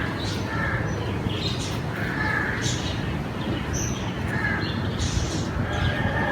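Crows cawing in short repeated calls, with smaller birds chirping higher up, over a steady low background rumble.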